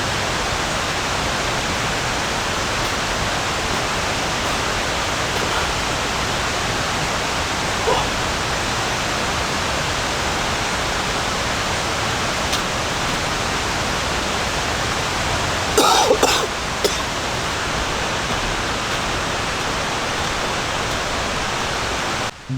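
Steady rain falling, an even hiss, with a short cluster of knocks or taps about two-thirds of the way through.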